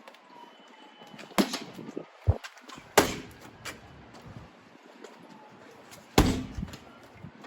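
Boxing gloves striking a heavy punching bag: single punches with pauses between, the hardest about three seconds in and just after six seconds.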